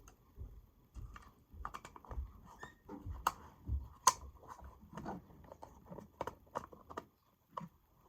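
Irregular light clicks and taps of small hard objects being handled, a sharper click about three seconds in and again about four seconds in.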